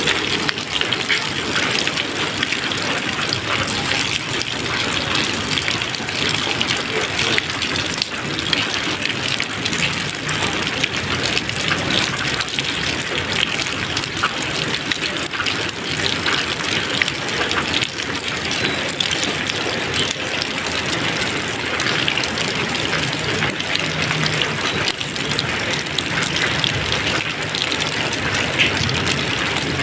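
Steady heavy rain, a dense hiss of drops with many small ticks, and a low rumble coming in under it near the end.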